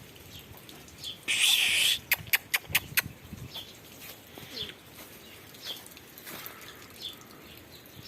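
Birds chirping faintly in short calls every second or so. About a second and a half in there is a short, loud, harsh burst, followed by a quick run of five sharp clicks.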